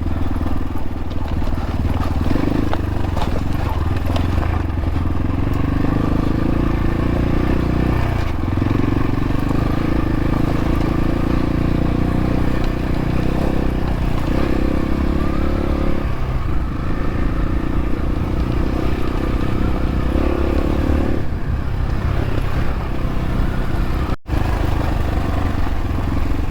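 X-Pro Templar X dirt bike engine running while riding a rocky trail, its revs rising and falling several times. The sound cuts out for an instant near the end.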